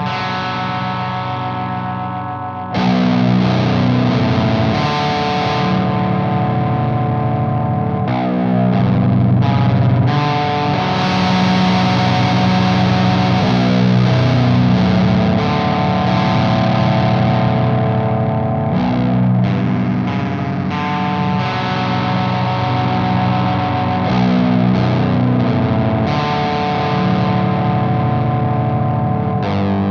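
Electric guitar with passive pickups, tuned to B standard, played through a Frost Giant Electronics The Mountain overdrive/distortion pedal into a Sunn Beta Lead amp, giving a heavily distorted riff. A ringing chord fades for about the first two and a half seconds, then the riff comes in louder with sustained chords.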